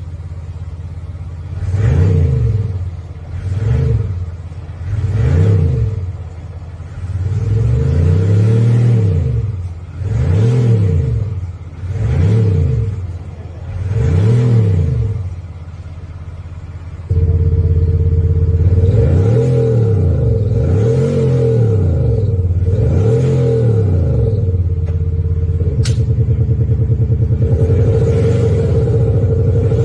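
Mercedes-Benz W223 S350d's inline-six diesel revved in repeated short blips through an Xhaust virtual exhaust sound system, which adds synthesized engine sound. About seven blips rise and fall, then about halfway through the sound steps up to a louder steady drone with three more blips and a fast, even burble near the end.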